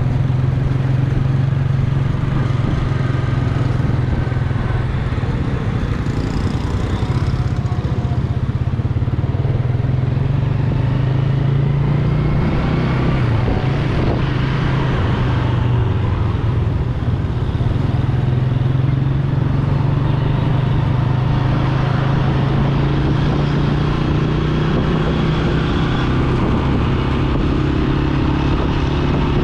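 Yamaha YBR125G's single-cylinder four-stroke engine running steadily while the motorcycle is ridden along a road. The engine note dips briefly about halfway through, then steadies again.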